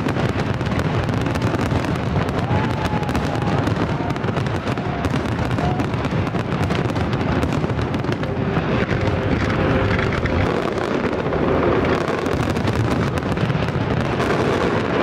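Festival fireworks salute going off in a dense, continuous run of bangs and crackles.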